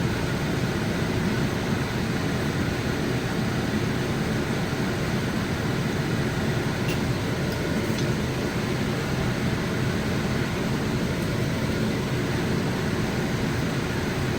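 Steady fan-like whir. A couple of faint ticks about halfway through.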